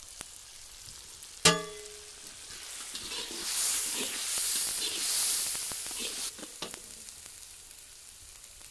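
Ground spices sizzling in hot oil in an iron kadhai of frying onion and tomato, stirred in with a metal spatula; a loud hiss swells about three seconds in and dies down about three seconds later. About one and a half seconds in comes a single sharp metal clang that rings briefly.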